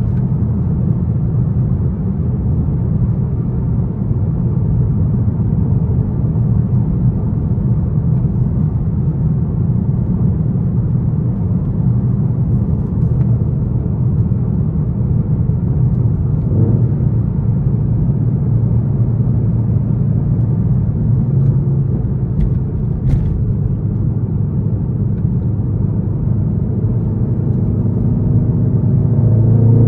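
Straight-piped Infiniti M56's 5.6-litre V8 exhaust, a steady low drone as the car cruises, starting to rise in pitch as it accelerates right at the end.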